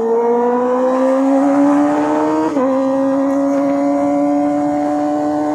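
Kawasaki ZX-25R's inline-four engine through an SC Project aftermarket exhaust, pulling under acceleration with its note rising. It drops in pitch at a quick upshift about two and a half seconds in, then holds a steady high-revving drone.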